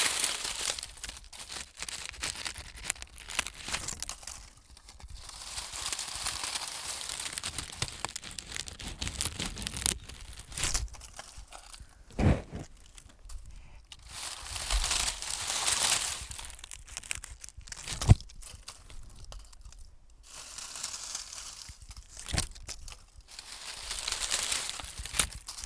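Close-up crinkling, tearing-like rustles in bursts of a few seconds each, with a couple of sharp taps in between.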